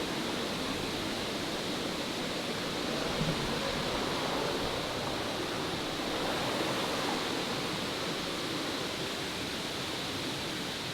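Steady rushing of water from a small waterfall and its stream, an even hiss with no breaks.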